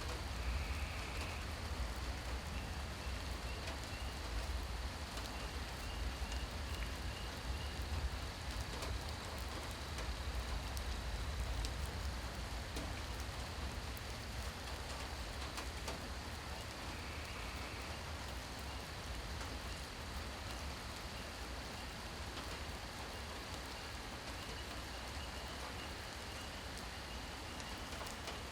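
Steady rain falling, a continuous even hiss with scattered drop ticks, over a low rumble.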